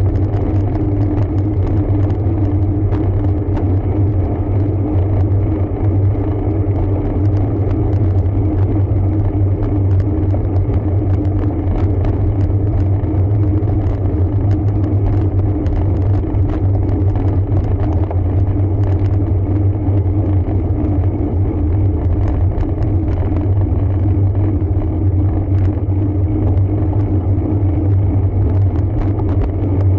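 Steady low rumble of riding a road bike, tyre and road noise mixed with wind on the camera microphone, with faint scattered ticks.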